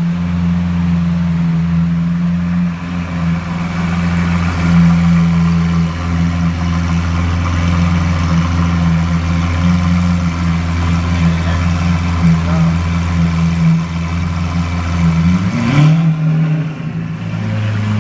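Lamborghini Aventador LP700-4 Roadster's 6.5-litre V12 idling steadily, then a short rev near the end that rises and falls back.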